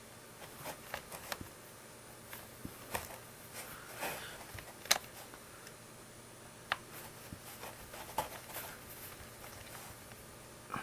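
Scattered light clicks and taps of small plastic parts being handled during work on a Panasonic EW1250P oral irrigator's body cover and hose, the sharpest click about five seconds in.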